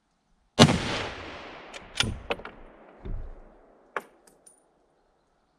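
A single unsuppressed shot from a 6.5x55 Swedish Mauser rifle firing Norma Oryx Silencer ammunition, with a long echoing decay. A few sharp metallic clicks and a dull thud follow over the next three seconds.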